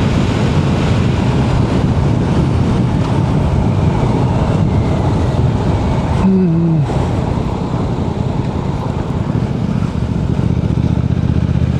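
Motorcycle running at riding speed with wind rushing over the microphone, steady throughout. A short falling tone sounds about six seconds in.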